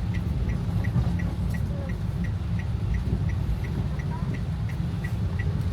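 A car's turn-signal indicator ticking evenly about three times a second over the steady low rumble of the car's cabin.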